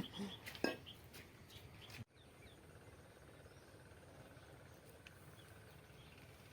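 Faint, steady outdoor background noise with a few faint, brief bird chirps, after a couple of short louder sounds in the first second.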